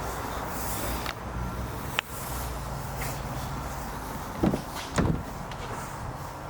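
Steady low rumble with a few sharp clicks, then two dull thumps about half a second apart, the loudest sounds, a little past the middle.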